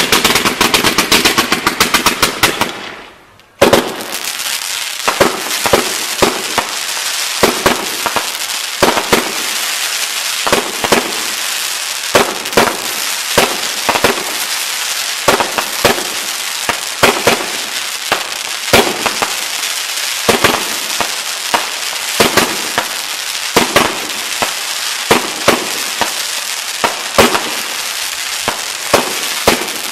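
Fireworks display heard close to the firing site. A dense rapid volley of cracks dies away about three seconds in, and after a brief lull a continuous crackle sets in, broken by frequent sharp bangs.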